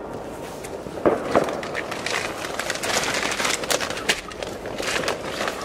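New Year's Eve fireworks going off: scattered sharp pops and bangs, with a loud bang about a second in and a dense crackle from about two to four seconds in.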